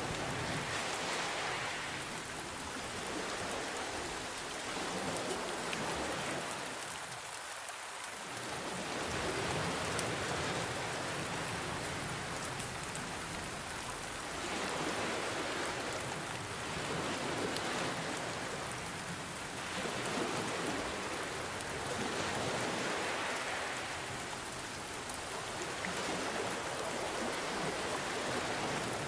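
Steady rain falling, mixed with ocean waves that swell and recede every five to seven seconds.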